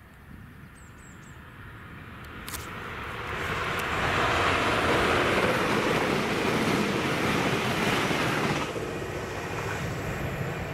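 TransPennine Express Class 397 electric multiple unit passing at speed: its rushing noise builds over about four seconds, stays loud for about four more, then drops sharply as the train clears and fades away.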